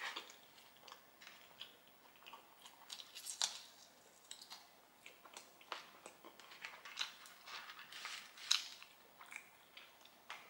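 Close chewing of a mouthful of cheeseburger: wet mouth clicks and small crunches, with sharper clicks about three and a half and eight and a half seconds in.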